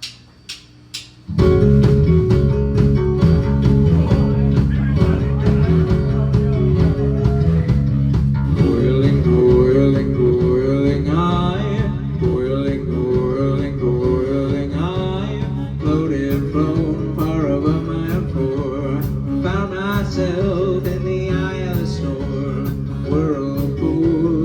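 A live rock band with guitars, bass and drums playing the instrumental intro of a song. It starts with a few short clicks, and the full band comes in together about a second and a half in, with a wavering lead line over steady low notes.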